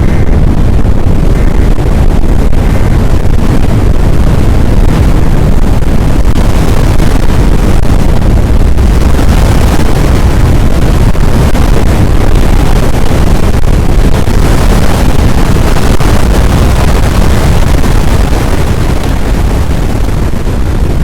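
Strong wind blowing across the microphone: a loud, steady rumbling rush, heaviest in the low end, without a break.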